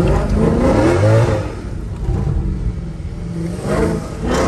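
Mercedes-AMG sedan's engine revving hard under acceleration, heard from inside the cabin. Its pitch climbs for about a second and a half, drops back, then climbs again near the end.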